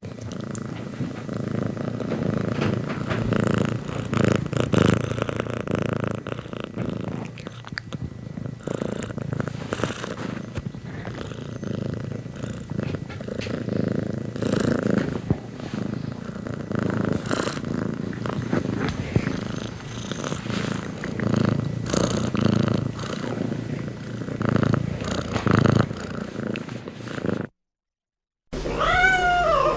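A domestic cat purring close up, the purr swelling and fading with its breathing. Near the end it breaks off briefly, then a single meow begins.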